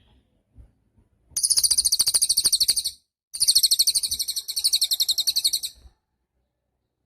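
Cililin songbird singing two long, very high trills of rapidly repeated notes, about a dozen a second, with a short break between them.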